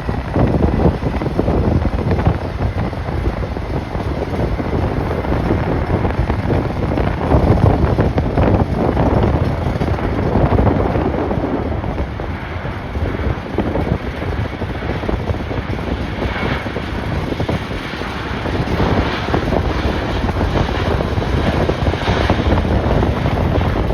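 Strong gusty wind buffeting the microphone over the noise of a jet airliner's engines, with a faint steady engine whine at the start.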